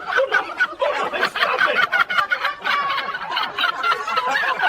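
People laughing hard in rapid, choppy bursts of giggling and snickering.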